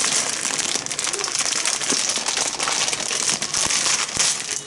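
Wood fire in a small fire pit crackling: a dense, steady hiss with many fine pops.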